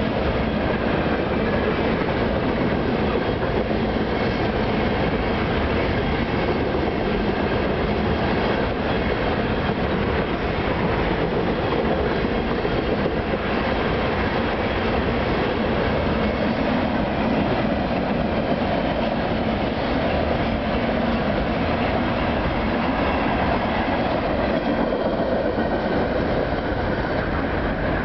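A freight train of loaded refrigerated boxcars rolling steadily past on steel wheels.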